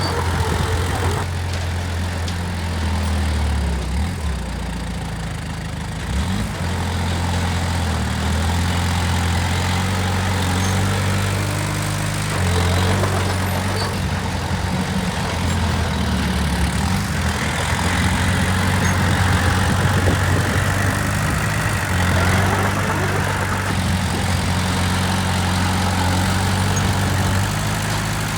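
Diesel engine of heavy earthmoving machinery running throughout, its note shifting as the machine works and growing louder and harsher a little past halfway.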